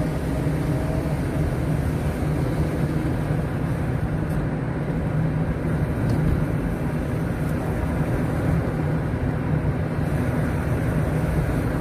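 Steady low rumble of a car in motion: engine and road noise heard from inside the vehicle.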